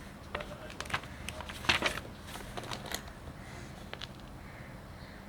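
Scattered small clicks and scrapes from hands and tools handling small camera parts during a teardown, about half a dozen, the loudest a little under two seconds in, over a faint steady low hum.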